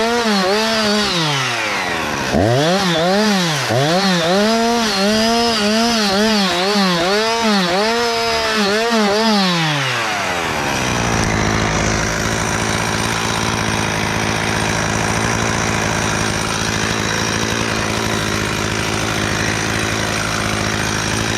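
Two-stroke chainsaw engine revving up and down in quick repeated bursts, about every two-thirds of a second. About ten seconds in it drops to a steady lower pitch with a rougher, noisier sound, which holds to the end.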